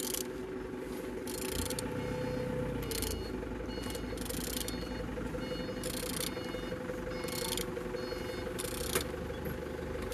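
Engine being turned over by hand with a tool on the crankshaft: a series of short, irregular rasping strokes over a steady mechanical hum, with one sharp click near the end.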